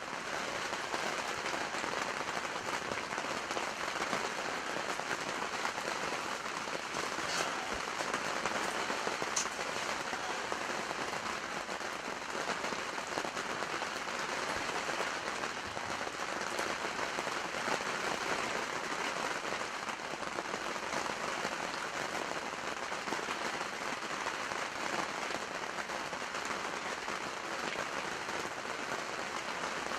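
Steady rain falling, an even, dense patter close to the microphone.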